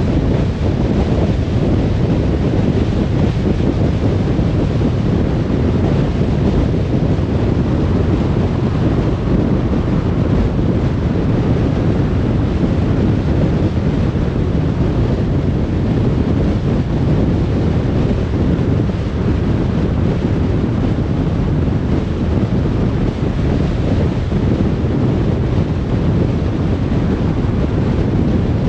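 Car driving at a steady speed: an even, unbroken low rumble of road and wind noise.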